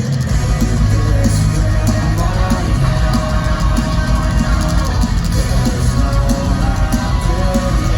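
A live rock band playing an instrumental passage at a steady loud level, with electric guitar and drum kit.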